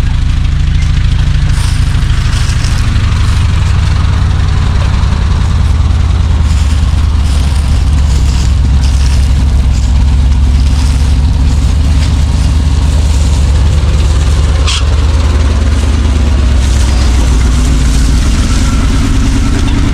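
Old Chevrolet C60 wrecker truck's engine running as the truck is driven slowly around the yard: a deep, steady rumble, with one sharp click about fifteen seconds in.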